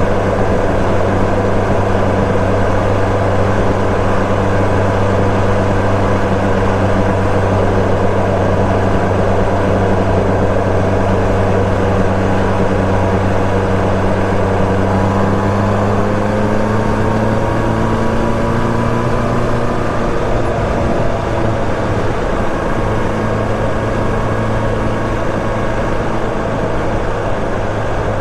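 Kawasaki ZRX1200S inline-four running through a Yoshimura titanium Cyclone exhaust while cruising at steady revs. The pitch rises slowly a little past halfway, then holds steady again.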